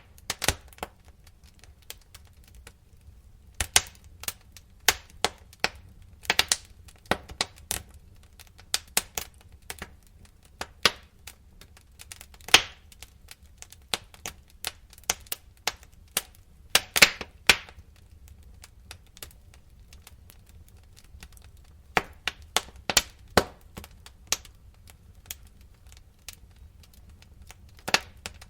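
Wood fire crackling: irregular sharp pops and snaps, some louder than others, over a low steady rumble of the burning logs.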